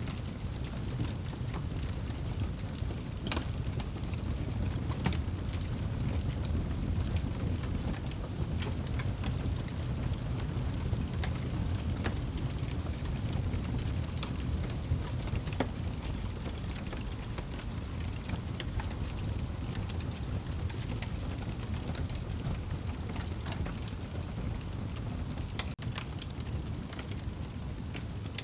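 Wood fire burning in a fireplace: a steady low rumble of flames with scattered crackles and pops, a few of them louder snaps.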